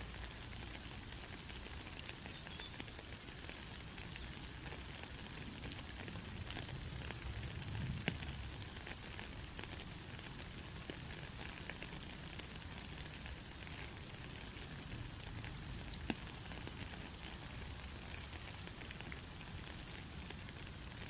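Steady white-noise hiss for lulling a baby to sleep, with faint scattered crackles like rain or sizzling and a slightly sharper click about eight seconds in.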